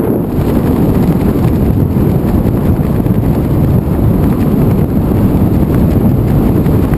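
Heavy wind buffeting the camera microphone: a loud, steady, rumbling rush of air during a tandem skydive.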